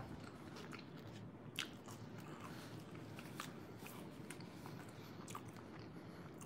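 Faint close-miked chewing of food with the mouth closed: soft wet mouth clicks roughly once a second over a low hum of room noise.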